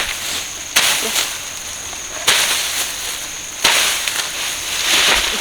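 Three sharp snaps about a second and a half apart, each trailing off into a dry rustle, with more rustling near the end.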